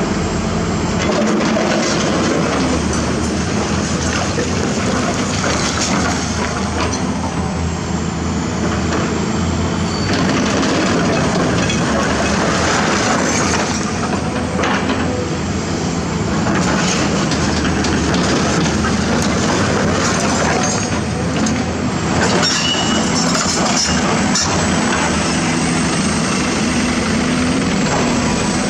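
A hydraulic excavator's diesel engine running steadily under working load, with scattered metal clanks and a few short squeaks as the machine digs and moves.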